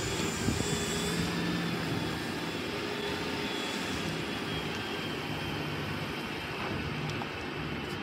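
Heavy machinery engine running steadily, a continuous low hum.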